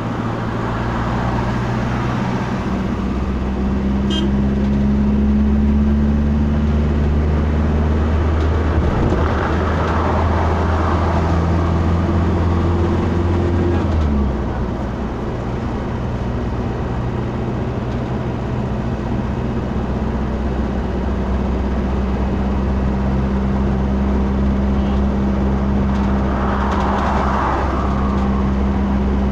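A car's engine and road noise while driving, a steady low drone whose pitch steps and drops about halfway through, as with a gear change or easing off. There are two swells of hiss, one a third of the way in and one near the end.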